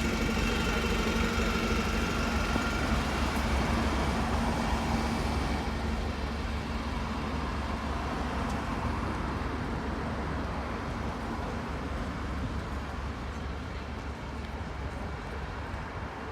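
Street traffic: a motor vehicle's engine humming close by, strongest for the first five seconds and then fading away, over a steady low rumble of traffic.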